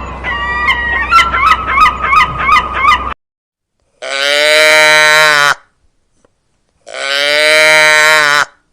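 Geese honking in quick repeated calls over a low hum for about three seconds. After a short silence come two long, level calls, each about a second and a half.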